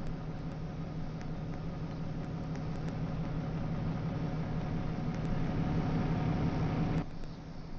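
A steady low mechanical hum under a hiss, growing slightly louder, then dropping off suddenly about seven seconds in.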